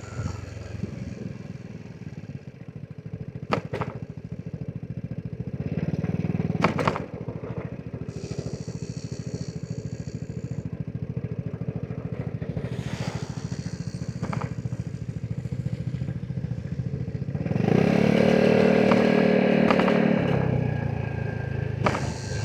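Vespa GTS 300 SuperSport scooter's single-cylinder four-stroke engine running under way. There are two sharp knocks a few seconds in and a brief rise in engine sound around seven seconds. Near the end the engine gets louder for about three seconds under throttle, then eases off.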